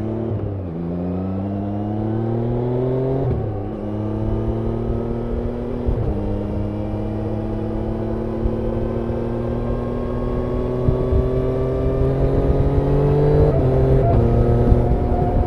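Motorcycle engine pulling through the gears: the pitch climbs steadily, drops sharply at each gear change (three quick shifts in the first six seconds, then a long, slow climb and another shift near the end).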